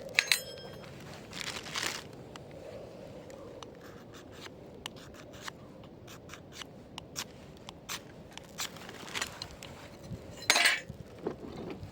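Ferrocerium rod (metal match) struck with its striker: short, harsh scraping strokes near the start, at about two seconds and a loud one near the end. Scattered light ticks and crackles come in between.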